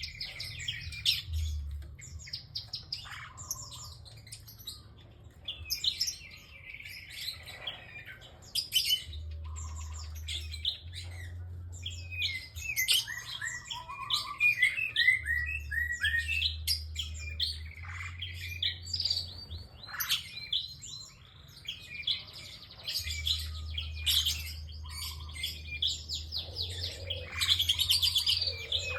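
Prinia (prenjak) singing continuously, with rapid high-pitched chirps and trilled phrases repeated one after another with barely a pause.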